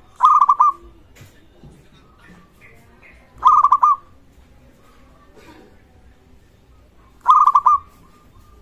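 Zebra dove (perkutut) singing: three short bursts of four or five quick, staccato cooing notes, spaced about three and a half seconds apart.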